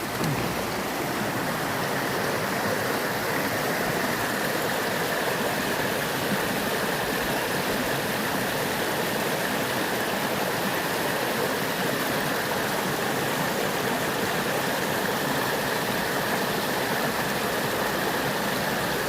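Mountain stream flowing over rocks: a steady rush of running water.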